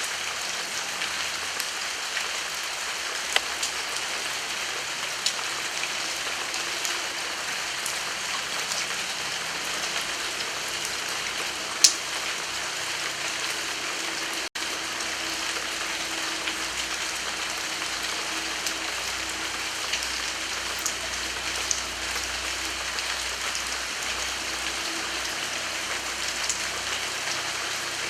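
Steady heavy rain, a constant hiss with individual drops ticking close by; one louder drop lands about twelve seconds in.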